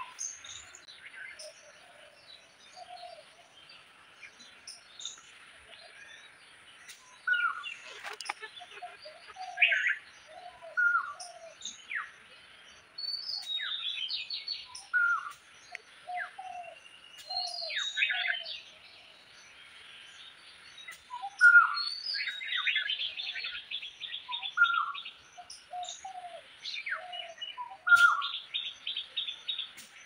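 Several birds calling: a steady mix of short chirps and whistles, with rapid trilled runs in the middle and near the end, and some lower, softer notes among them.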